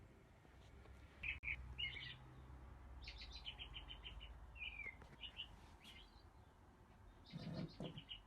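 Birds chirping faintly: a few short single tweets and a quick run of rapid high chirps, spaced a second or more apart.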